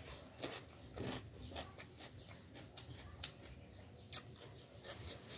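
Crunchy chewing of a bite of raw cucumber, with irregular sharp crunches a few times a second.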